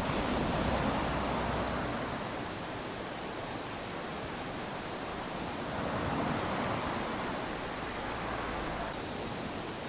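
Small waves lapping onto a sandy shore: a steady wash of surf that swells twice, once at the start and again about six seconds in, then eases back.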